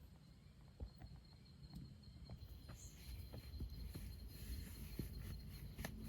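Faint night insects, crickets, trilling as one thin steady high tone, with scattered soft ticks. From about halfway a hiss and rustling clicks grow louder.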